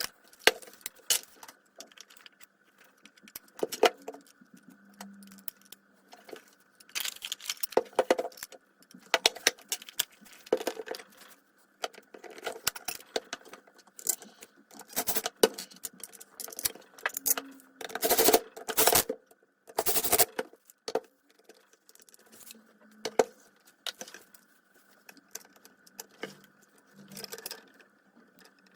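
Irregular metallic clicks, clinks and short rattles of small metal parts and hand tools being handled while working on a circular saw, with a busier cluster of rattling about two-thirds of the way in.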